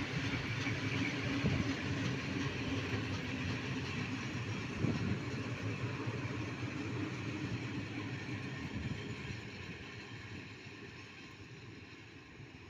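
Freight train of tank wagons rolling along the rails, a steady rumble of wheels with a few knocks, fading away over the last few seconds as the train recedes.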